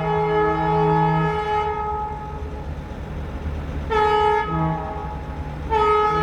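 Diesel freight locomotive's multi-chime air horn sounding: a long blast trailing off, a short blast about four seconds in, then another long blast, the closing part of the long-long-short-long grade-crossing signal. A low engine rumble runs beneath it.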